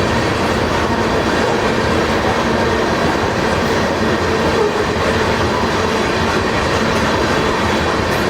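Crude oil freight train rolling past: a loud, steady noise of steel wheels running on the rails.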